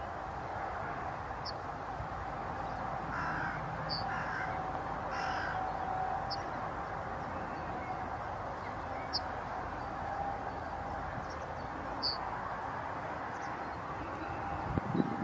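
Outdoor birdsong: single short, high bird notes every two to three seconds over a steady background rush, with three harsher, lower calls, like crow caws, about three to five seconds in.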